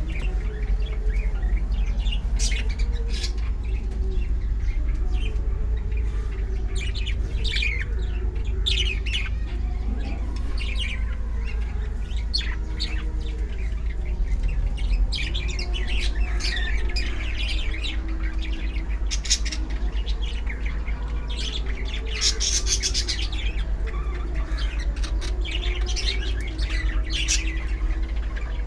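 A group of pet birds chirping and squawking continuously in many short, overlapping calls, over a steady low rumble.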